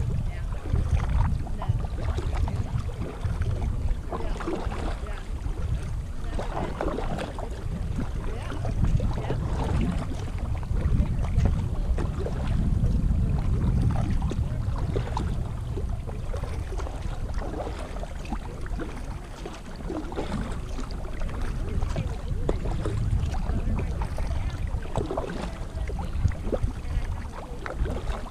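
Kayak being paddled on a lake, with wind buffeting the microphone: a steady low rumble over the sound of water.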